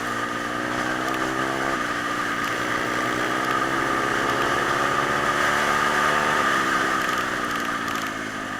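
Small single-cylinder pit bike engine running under way. The pitch drops sharply about two seconds in, climbs steadily as it pulls, then drops again near six and a half seconds, like upshifts between gears.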